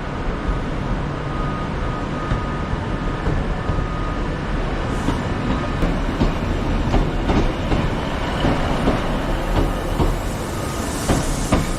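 Passenger train pulling out of the station: a steady low running rumble, with the wheels clacking irregularly over rail joints and pointwork from about halfway through, the clacks coming more often toward the end.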